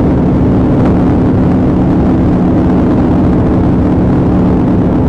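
Police car driving: engine and road noise in a loud, steady drone with an unchanging pitch.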